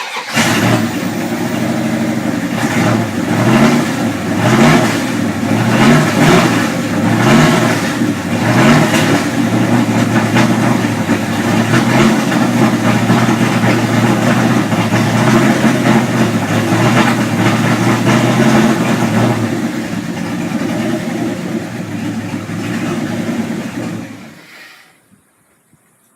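Dodge Magnum 5.9 V8 catching and firing up, revved several times in the first few seconds, then idling steadily until it is shut off about 24 seconds in. It runs on its first start-up now that the plug wires have been walked around the cap to correct a distributor installed 90 degrees out.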